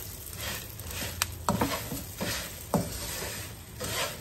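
Whole akabare chillies and spices sizzling in hot oil in a wok while a wooden spatula stirs them, the hiss swelling and easing with each stroke. The spatula knocks and scrapes against the pan several times.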